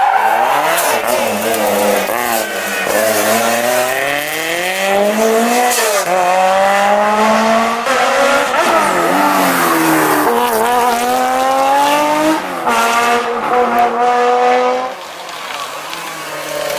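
A rally car's engine being driven hard, its pitch climbing and falling again and again as it is revved and backed off. The sound drops away about fifteen seconds in.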